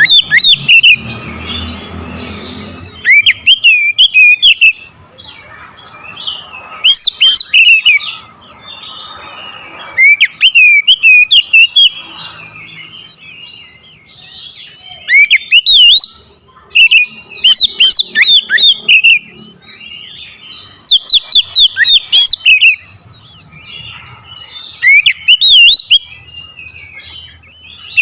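Oriental magpie-robin singing loudly in varied, rapid whistled phrases of a second or two, repeating every few seconds with quieter chatter between.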